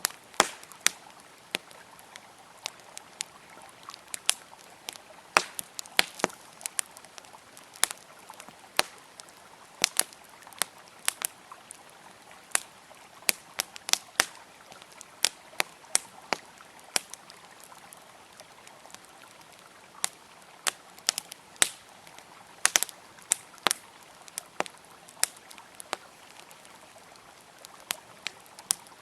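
Wood campfire crackling with irregular sharp pops and snaps, some much louder than others, over the steady rush of a flowing river.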